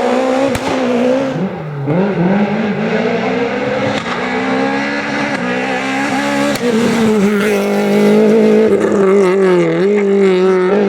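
Rally car's engine at high revs, its pitch rising and falling with gear changes and throttle through the stage, with two sharp cracks, about half a second in and about six and a half seconds in.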